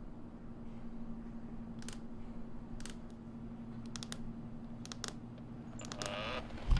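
Steady low electrical-sounding hum of room tone, with a few light scattered clicks and a sudden low thump right at the end.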